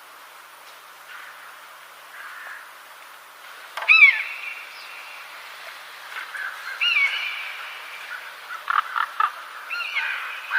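Birds calling: loud, curved, downward-sliding notes about four and seven seconds in, a quick run of short sharp notes near the end, and more calls following, over a faint steady hiss.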